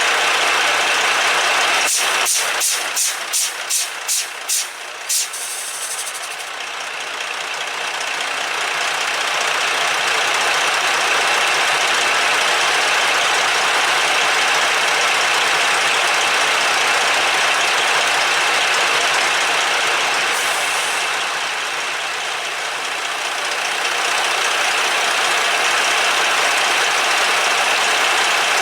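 Freightliner Columbia truck's diesel engine idling steadily, with a quick run of about eight sharp pulses about two seconds in and a brief high hiss near the end.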